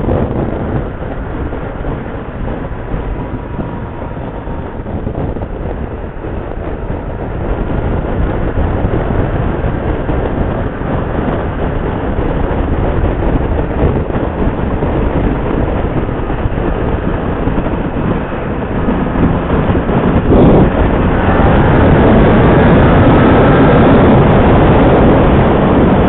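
Motorcycle running at road speed, its engine mixed with wind rush on a helmet-mounted mic. It grows louder partway through, and after a brief knock about twenty seconds in it is at its loudest, with the engine note rising under acceleration.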